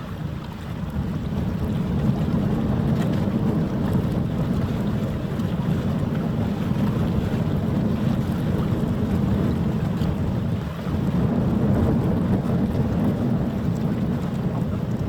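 Wind buffeting the microphone: a steady low rumble with no horn or other tone in it.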